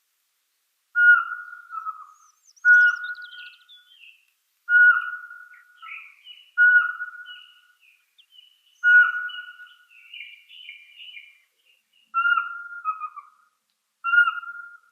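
Birds calling: a clear whistled note at one steady pitch, repeated seven times about every two seconds, with softer, higher chirps and twitters between the whistles in the middle stretch.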